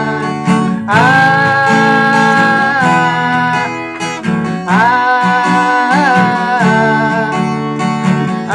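Acoustic guitar with a capo on the second fret, strummed through the song's bridge chords (G major, A sus2, E minor), with the chord changes every second or two.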